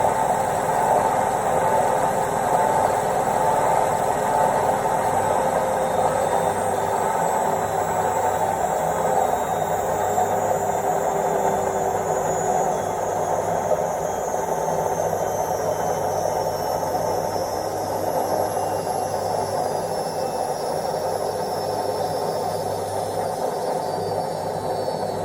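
Indesit IWC71252 front-loading washing machine running through the last part of its quick-wash cycle, a steady rushing drone with a faint high whine that slowly falls in pitch as the drum slows.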